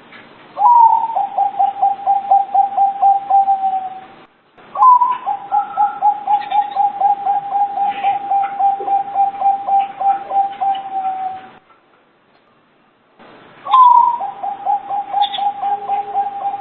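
Zebra dove (perkutut) cooing: three song bouts, each opening on a slightly higher note and running into a rapid, even string of short coos at about four a second. The second bout is the longest, and the third is still going at the end.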